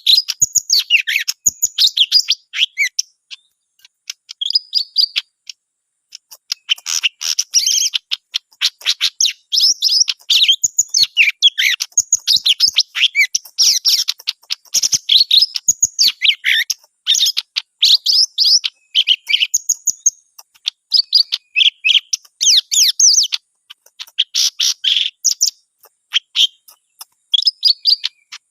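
Green leafbird (cucak ijo) singing prolifically: long runs of rapid, varied whistles and chirps, broken by a few short pauses.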